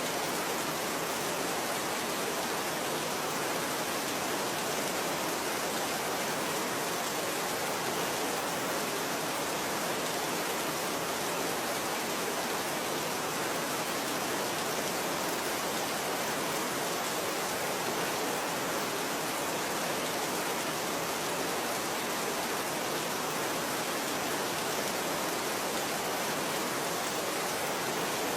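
Steady rain falling: an even, unchanging hiss with no separate drops or thunder standing out.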